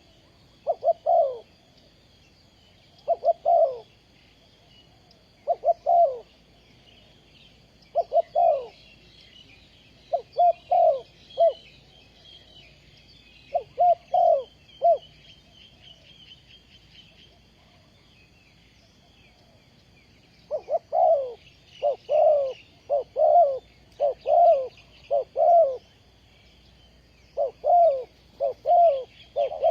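Spotted dove cooing: short phrases of two or three low coos, repeated every couple of seconds. There is a pause midway, and the phrases come faster near the end, over faint, steady high chirping.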